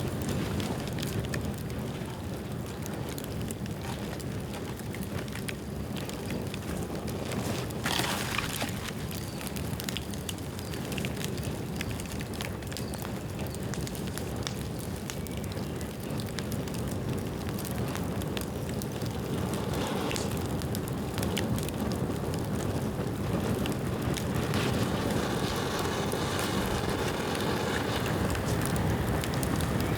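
Bamboo bonfire burning: a steady rush of flame with frequent crackles and pops, and a louder crack about eight seconds in. The fire grows a little louder in the second half.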